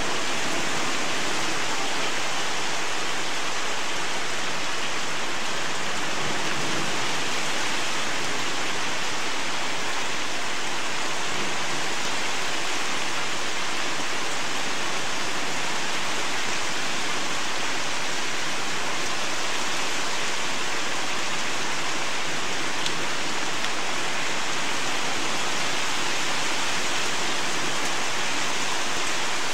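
Heavy rain pouring down in a steady, even hiss, unbroken throughout.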